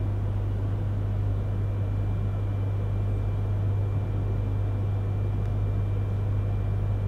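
Cabin noise of a Yamagata Shinkansen Tsubasa train rolling slowly into a station on the conventional line: a steady low hum with running noise from below, and a faint steady high tone over it.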